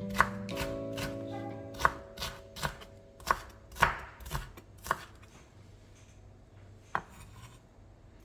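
A kitchen knife chopping food on a cutting board: about nine sharp, irregularly spaced knocks, the last one alone near the end. Soft background music plays under the first two seconds and then fades.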